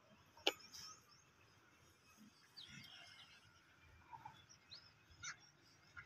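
Faint, scattered small-bird chirps over quiet outdoor background noise, with a sharp click about half a second in.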